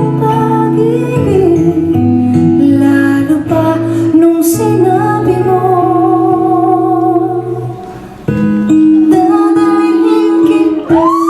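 Live band music with guitar accompaniment and a female voice carrying a wavering melody, with a brief drop in the sound about eight seconds in.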